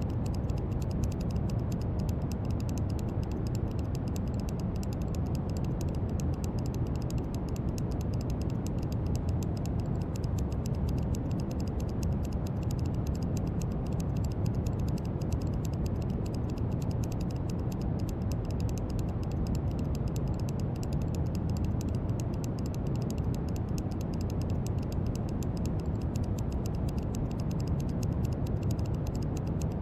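Brown noise: a steady, deep rushing hiss, strongest in the low rumble and fading toward the highs, without change.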